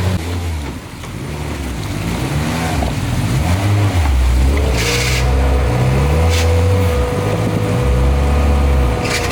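Off-road 4x4 engine revving up and down again and again, its pitch rising and falling. A steady thin whine joins about halfway through, with a few short sharp noises over it.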